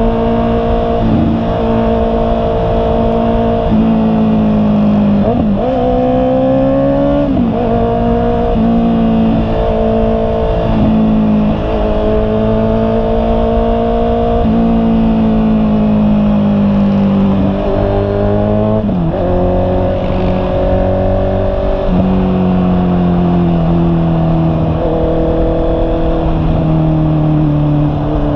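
Honda CB650R's inline-four engine running under way, its pitch holding, sagging and then jumping up or down several times as the bike is accelerated and shifted through the gears.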